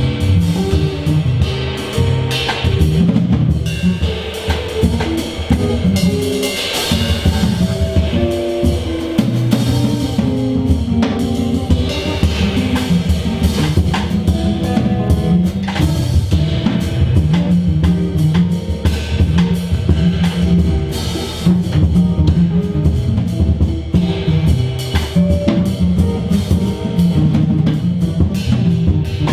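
Live band playing an instrumental passage without vocals: a drum kit with kick, snare and rimshots keeps a steady groove under sustained low notes and chords.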